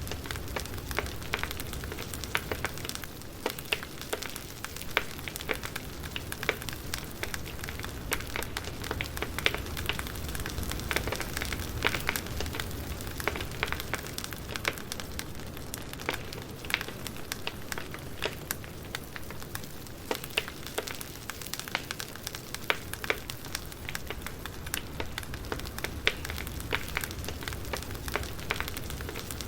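Wood fire crackling: irregular sharp pops and snaps over a steady low background rumble.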